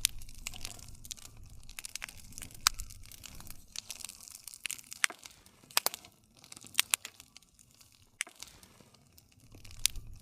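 Wood fire crackling, with sharp pops at irregular moments over a low rumble of burning.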